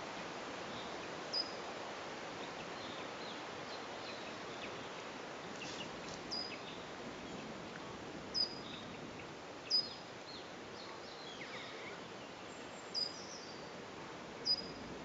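Steady background hiss with birds calling: about six short, sharp, high chirps a second or more apart stand out over fainter scattered calls.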